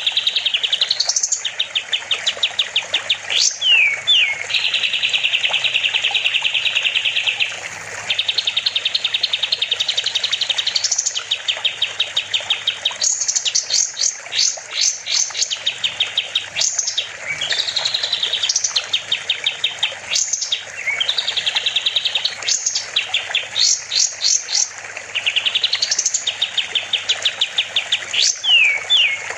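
Kapas tembak songbird singing continuously and loudly: fast trills of rapidly repeated notes, some held for several seconds, broken by quick upward-sweeping whistles.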